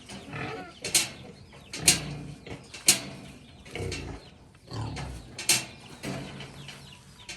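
Pigs feeding, with low grunts and sharp smacking clacks about once a second.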